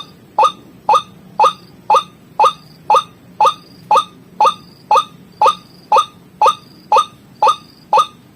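White-breasted waterhen (ruak-ruak) bird-lure recording: one short, sharp, rising call repeated evenly about twice a second.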